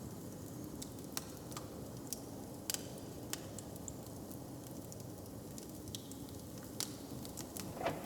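Wood fire crackling, with scattered sharp pops over a low, steady background rumble, and a brief cluster of louder crackles near the end.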